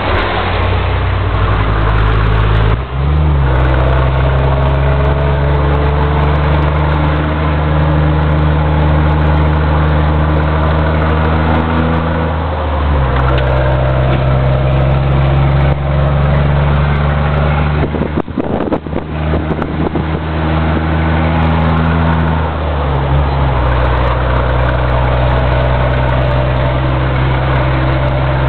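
Scania truck's diesel engine pulling hard up a steep grade, running steadily under load. Its note changes pitch three times, about every ten seconds, as it goes through the gears. It briefly dips about two thirds of the way through.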